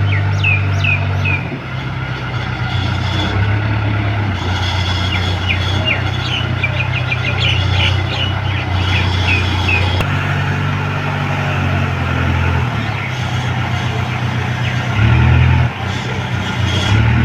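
Heavy diesel engine running, its low note stepping up and down several times. Short high chirps sound over it in the first half.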